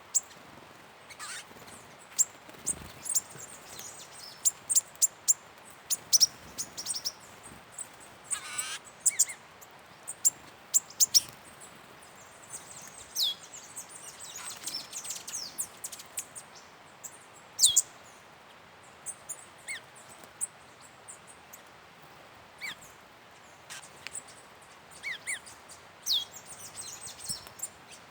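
Wild birds calling, with many short high chirps scattered throughout. Several quick, sharply falling whistled notes come a few seconds apart, and there is a brief wavering trill about a third of the way through.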